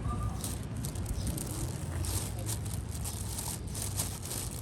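Irregular crinkling and rustling, many short scattered clicks of something being handled, over a low steady hum.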